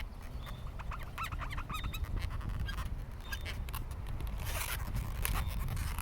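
Inflated latex balloons squeaking as they are handled and rubbed: many short, rubbery squeaks and small clicks in quick succession.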